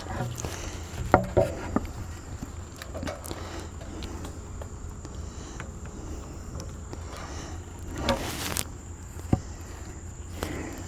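Scattered knocks and scrapes, with a longer clatter about eight seconds in, as a heavy wet walnut log is rolled by hand on a sawmill bed and digs into the log stops. Insects chirp faintly throughout.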